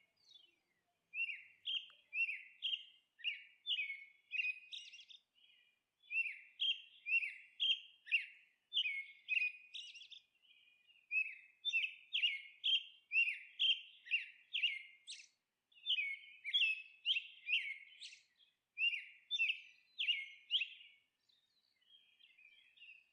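Small songbird chirping in repeated phrases of short, high notes, about two a second, with brief pauses between phrases.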